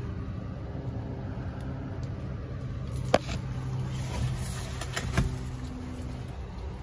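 Two sharp knocks about two seconds apart over a steady low rumble.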